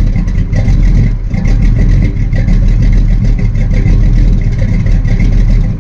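1972 Dodge Charger's 383 cubic-inch big-block V8 running steadily at idle, warming up after a cold start.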